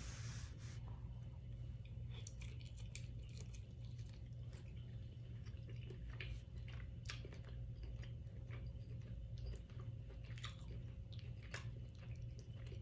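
Close-miked mouth sounds of a person chewing saucy steak and vegetables: scattered wet smacks and clicks over a steady low hum.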